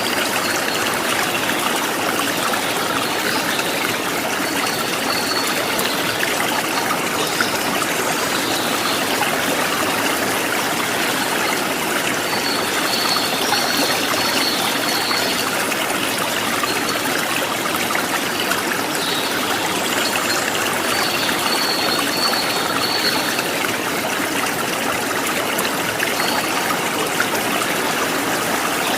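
Stream water running and trickling steadily, with a bird's short high trill coming in several times over it.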